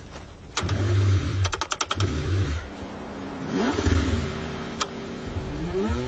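Car engine being cranked over in freezing cold, the engine struggling to start. The starter turns it in uneven bursts with a quick run of sharp clicks and short rising whines.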